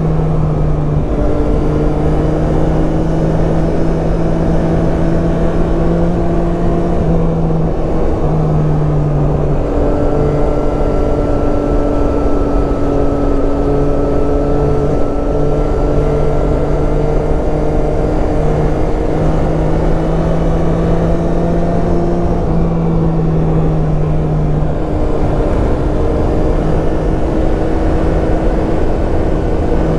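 Yamaha Tracer 9's inline-three engine running steadily under way, heard from on the bike, with a continuous rush of wind and road noise. The engine's pitch shifts slightly a few times as the throttle changes.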